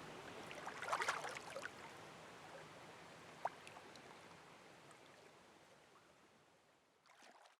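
Faint room hiss slowly fading away, with a short cluster of sharp clicks about a second in and a single click a couple of seconds later. The sound cuts off completely at the very end.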